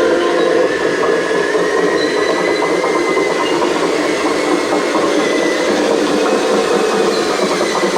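Radio-controlled model excavator running its electric motors steadily, a continuous whir with a thin high whine that rises slightly in pitch.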